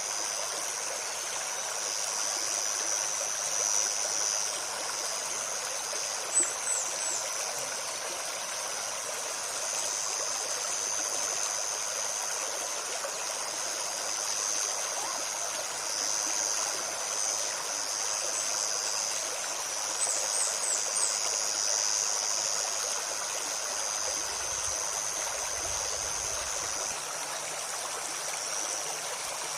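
A small forest stream runs and trickles steadily over stones, with a strong high hiss in the water noise. A few brief high bird chirps come about six seconds in and again around twenty seconds in.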